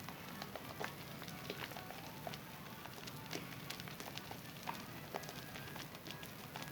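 Wet hands lathering a bar of Zest soap: squishing lather with a dense, continuous run of small wet clicks and crackles.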